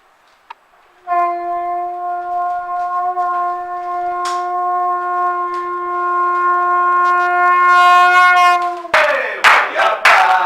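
A shofar sounds one long, steady blast lasting about eight seconds, growing a little louder before its pitch falls away at the end. Applause breaks out as the blast ends.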